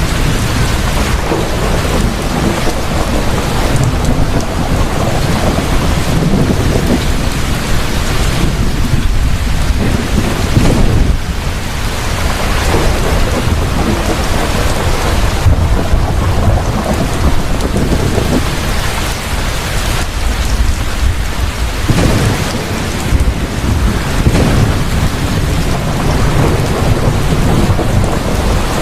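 Heavy rain pouring steadily, with deep thunder rumbling in swells through it.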